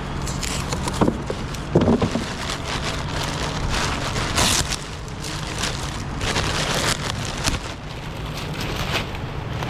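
Body-shop work noise: a steady low hum, two sharp knocks about one and two seconds in, then several short scraping or rustling sounds, typical of parts being handled.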